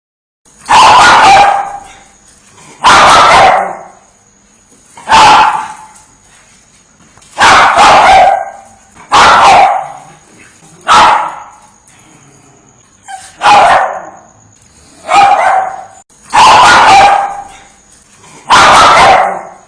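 A dog barking loudly in single, evenly spaced barks, about one every two seconds, with ten in all.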